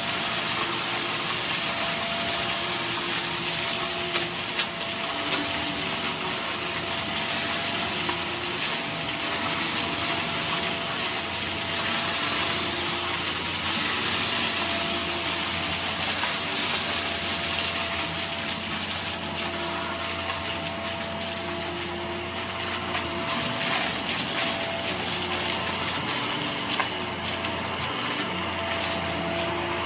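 Vacuum cleaner running steadily, with a constant motor hum and a thin steady whine.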